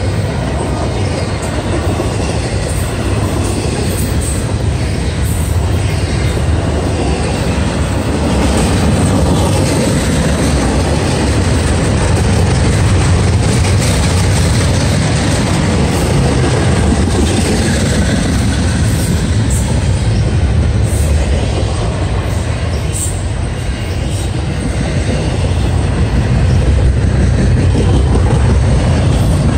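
Double-stack intermodal train's loaded well cars passing close at speed: a continuous loud rumble of steel wheels on rail, growing slightly louder near the end.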